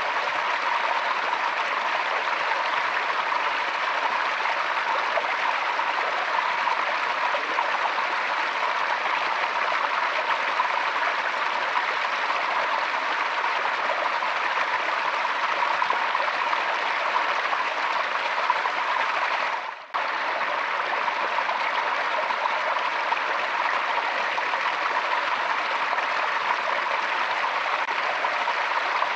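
Forest stream flowing steadily over rocks, an even rush of water. About two-thirds of the way through, the sound briefly fades away and then cuts straight back in.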